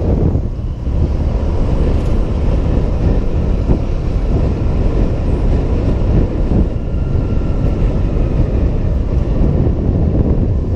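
Steady wind and road rush on a helmet-mounted camera while riding a Honda PCX 125 scooter, with the scooter's small engine running underneath.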